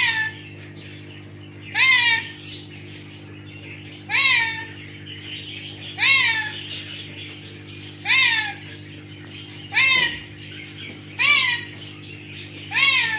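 A parrot repeating a meow-like call about every two seconds, each a short cry that rises and then falls in pitch, over a steady low hum.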